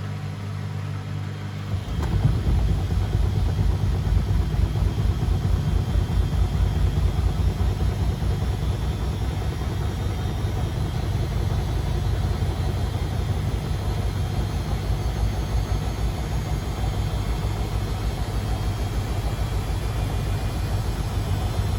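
Beko WMD 46160 washing machine running, first with a steady low hum. About two seconds in, it changes suddenly to a loud rumble of the turning drum, with a faint motor whine slowly rising in pitch.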